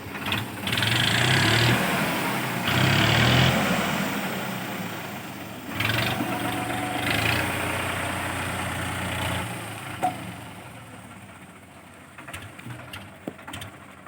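Swaraj tractor's diesel engine running, rising in loud surges several times, then dropping to a lower, quieter run about nine or ten seconds in, with scattered clicks after.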